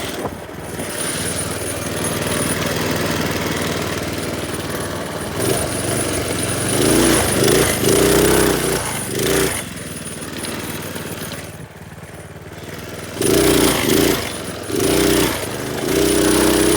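Minibike's small single-cylinder engine running while being ridden, revving up in bursts about halfway through and again near the end.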